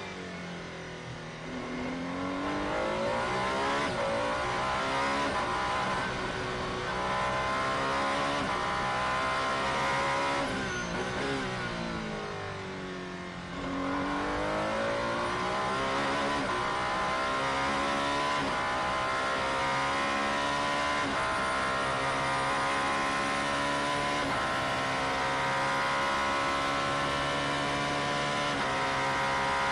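Alpine A424 hypercar's twin-turbo V6 running at racing speed, its pitch dropping and climbing back twice, about a second in and again near the middle, with quick breaks like gear changes, then holding a high, steady note for the second half.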